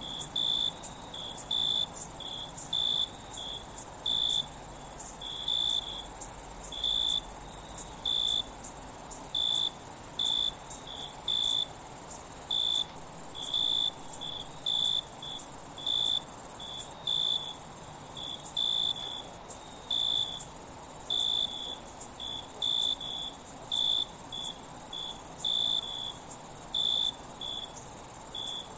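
Night insects: crickets give a steady, very high-pitched trill, with a second insect chirping at a lower pitch about twice a second.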